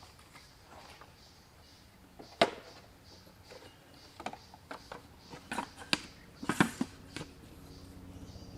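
Hard objects knocking and clattering: one loud knock about two and a half seconds in, then a string of lighter clacks, with a low steady hum starting near the end.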